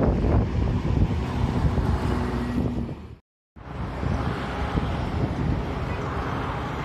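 Strong wind buffeting the microphone in gusts, with a faint steady hum underneath. The sound cuts out completely for a moment about three seconds in, then the wind noise resumes.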